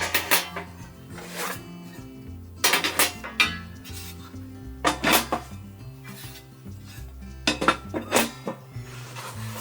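Background music with a steady bass line, over short bursts of clinking and scraping from dishes and utensils being handled, about eight times.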